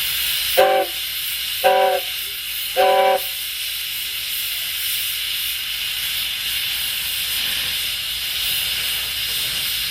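Miniature live-steam locomotive's whistle sounding three short toots about a second apart, over a steady hiss of steam.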